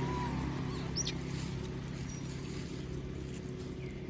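Low steady motor hum, slowly fading, with a few short high chirps and squeaks over it.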